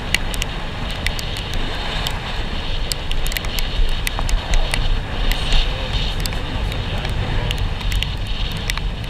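A vehicle on the move: a steady low rumble with wind on the microphone and many scattered sharp clicks throughout.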